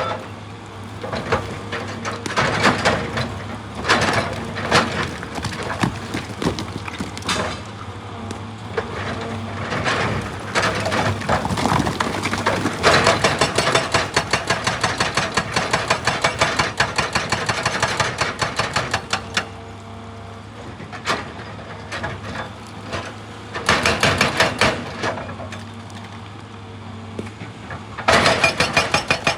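Excavator's hydraulic breaker hammering rock: irregular crunching strikes at first, then runs of rapid, evenly spaced blows that start and stop several times. The diesel engine runs steadily underneath.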